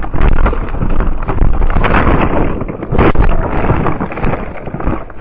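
Loud wind buffeting and vehicle road rumble on the microphone, an uneven rushing noise with irregular knocks that eases toward the end.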